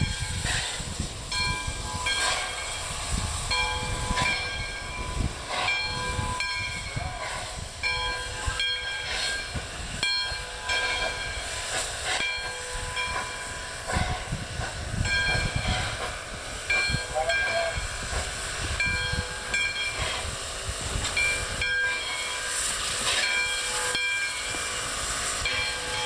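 Nevada Northern No. 93, a 2-8-0 steam locomotive, moving slowly with a steady hiss of steam and low chuffs, while its bell rings over and over, about once a second.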